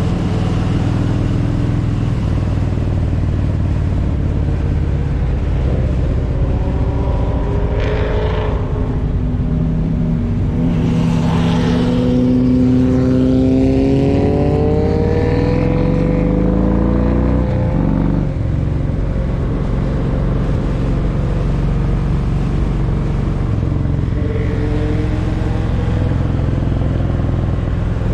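Motorcycle engine running at road speed under a steady rush of wind. About halfway through, an engine's pitch climbs steadily for several seconds as a bike accelerates, then drops sharply.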